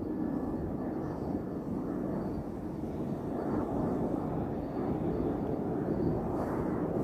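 Aircraft engine noise from a passing airliner: a steady rumble that slowly grows louder.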